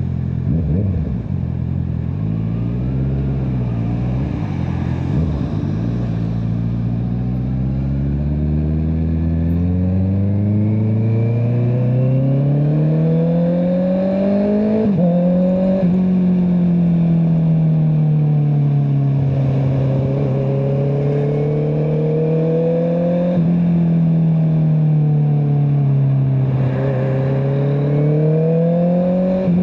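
Honda CBR650R's inline-four engine through an Akrapovic exhaust under way. It runs low and uneven at first, then revs climb steadily. After a quick shift about halfway in, the revs fall and rise twice more as the bike rides on.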